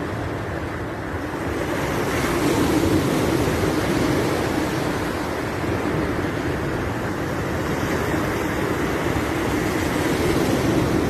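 Sea waves washing in, a steady rush of surf that swells louder about two seconds in and again near the end.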